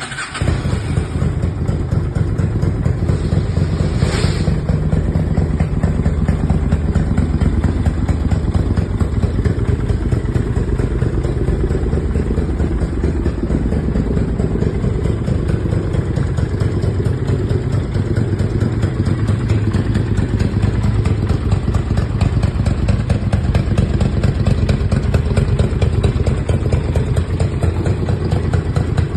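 Honda VT750C Shadow's 745 cc V-twin engine idling steadily.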